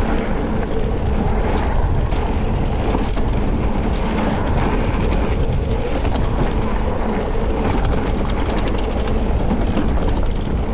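Wind rushing over the action camera's microphone as an e-mountain bike rides along a wet trail, with steady tyre and bike noise and scattered small clicks and rattles, more of them about two thirds of the way in.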